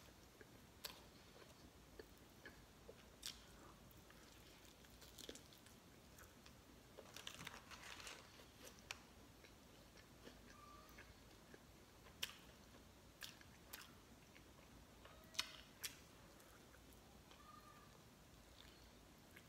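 Faint close-up eating sounds from chewing and biting into a sauced chicken wing: scattered short wet clicks and smacks over near quiet, with a short noisy patch of chewing about seven to eight seconds in.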